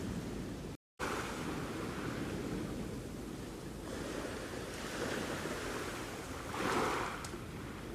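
Sea waves washing onto the shore in a steady surf, with one wave swelling louder near the end. A brief cut to silence interrupts the sound just under a second in.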